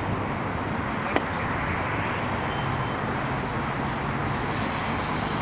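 Steady city road traffic noise, a continuous rush of cars, with a single sharp click about a second in.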